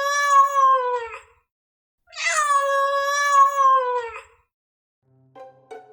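A cat meowing: the end of one long, drawn-out meow, then a second one, each sagging slightly in pitch as it ends. A few short plucked musical notes start near the end.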